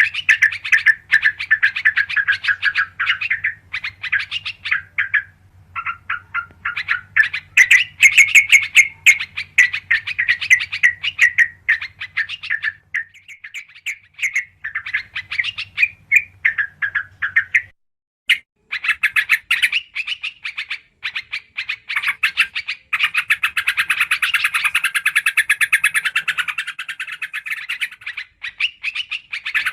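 Trucukan (yellow-vented bulbul) calling in rapid, dense chattering chirp series, as used for a bird-lure recording, with a brief pause a little over halfway. A faint low hum runs under the first half.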